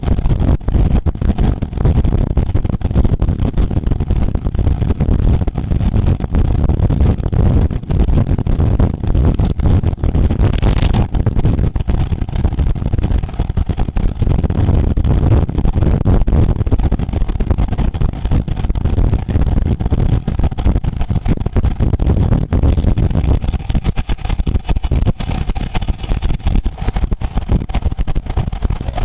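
Wind buffeting the microphone of a camera carried at racing speed, a loud rough rumble that rises and falls rapidly. A brief hiss comes in about ten seconds in and again near the end.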